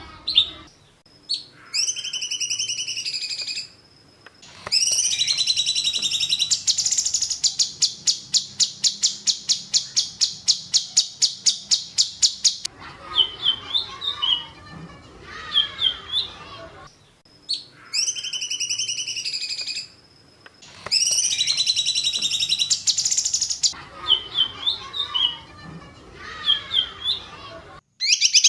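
Songbird song for training cage birds, built of sharp high phrases and a long fast string of repeated piercing notes, about six a second for several seconds (the 'tembakan' style). The same sequence repeats about halfway through, as a looped recording.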